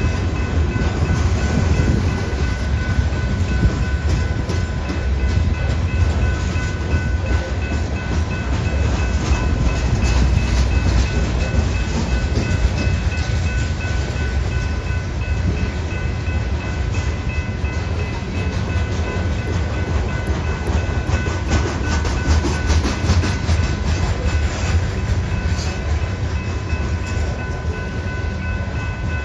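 Long BNSF freight train of grain hopper cars rolling past with a steady low rumble, the wheels clacking over rail joints in clusters. A steady high-pitched ringing tone sits over the rumble.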